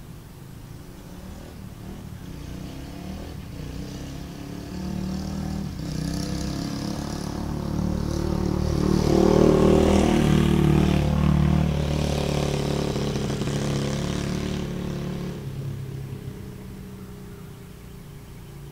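Dirt bike engine running, getting louder to a peak about halfway through and fading again toward the end.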